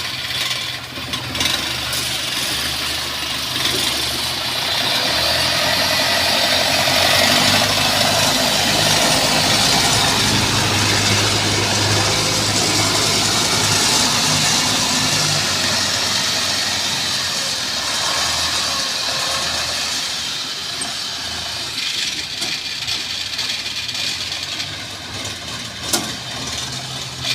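Rice combine harvester running under load as it drives through the standing crop, its engine and threshing machinery drawing nearer and louder for several seconds, then easing off.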